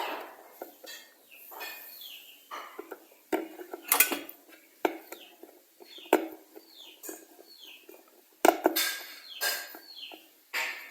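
Irregular clicks, knocks and scraping of a screwdriver and screws against an electric kettle's plastic cover as the screws are driven in, with sharper knocks about four seconds in and again near the end.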